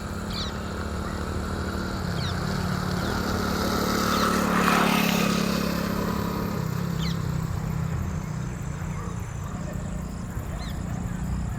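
Outdoor ambience of a steady engine hum, with a vehicle passing that swells loudest about four to five seconds in, and several short, high bird chirps scattered throughout.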